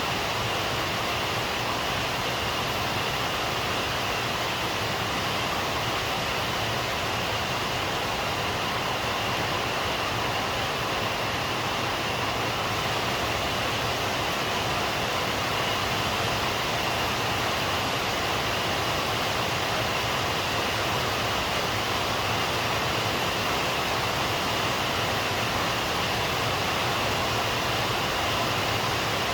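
Steady rain falling, an even hiss that holds at one level with no breaks or drops.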